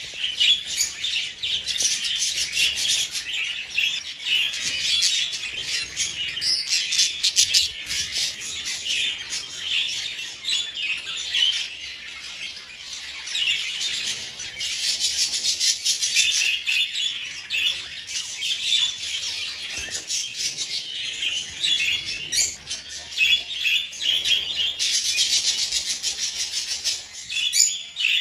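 A flock of budgies chattering and chirping without a break, many birds calling over one another, louder in stretches.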